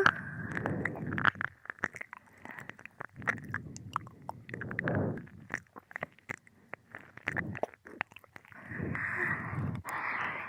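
Wet ear-licking mouth sounds close to a binaural microphone: many quick tongue clicks and lip smacks, with slurps and breaths between them.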